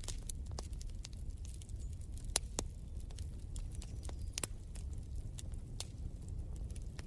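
Wood fire crackling in a fireplace: irregular sharp pops and snaps over a steady low rumble of the flames, with a couple of louder pops about two and a half and four and a half seconds in.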